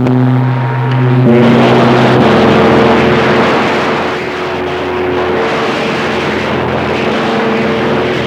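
CB radio receiver hiss with several keyed-up carriers heard over one another: a loud steady rushing noise under low, steady hum tones that shift in pitch about a second in and again about two seconds in, then hold.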